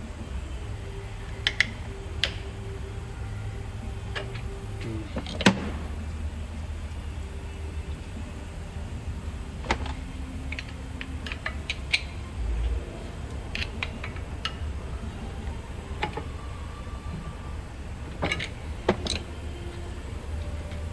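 Scattered clicks and light clanks of tools and parts being handled during car repair work, over a steady low hum, with one sharper knock about five seconds in.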